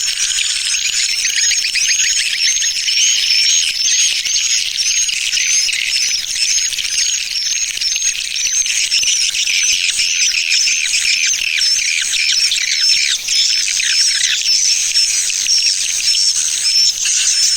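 Recorded swiftlet lure call of the 'tarik' type: a dense, unbroken chorus of rapid high chirps and twitters from many swiftlets, the kind of sound played to draw swiftlets into a nesting house.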